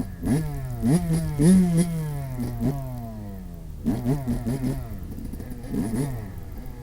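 Yamaha YZ125 two-stroke motocross bike engine revving hard, its pitch climbing and dropping again and again with the gear changes and throttle. It winds down about halfway through, then revs up again.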